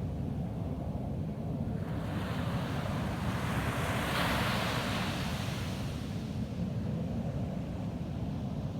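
Ocean waves breaking on a sandy beach. One wave's hiss swells about two seconds in, peaks near the middle and fades away, over a steady low rumble of surf.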